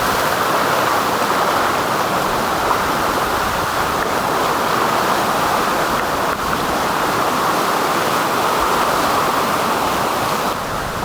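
Flooded, swollen creek rushing bank-full: a loud, steady roar of fast-moving water.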